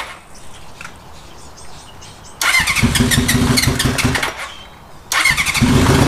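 1981 Honda CB750's four-cylinder engine being cranked by its starter in two bursts of about two seconds each, without catching: a cold start after sitting all winter.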